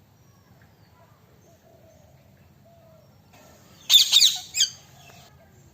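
Parrot giving a quick burst of three or four loud, high-pitched calls about four seconds in, over faint background.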